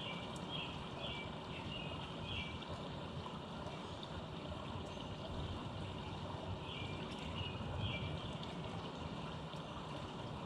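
A songbird singing short, repeated notes that drop slightly in pitch, in two bouts: over the first two seconds or so and again about seven seconds in, over a steady background rumble.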